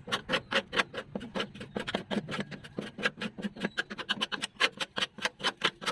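Rapid, even scraping strokes, about six a second, going steadily without a break.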